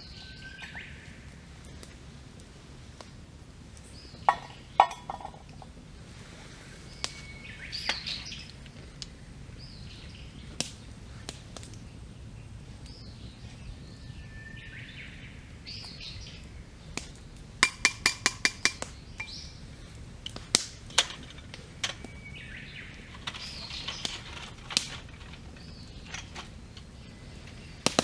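Wood fire crackling, with sharp pops and snaps scattered throughout and a quick run of pops about two-thirds of the way through. A songbird repeats its phrase every few seconds: a held whistle followed by a quick flourish.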